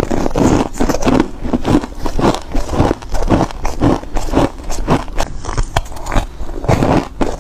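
Close-miked bites into foam ice: a steady run of crisp crunches, several a second, each a short crackling snap of the ice between the teeth.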